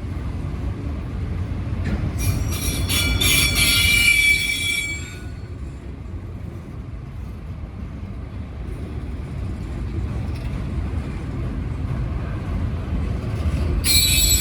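Freight train rolling past with a steady low rumble, its wheels squealing for about three seconds starting two seconds in and again briefly near the end.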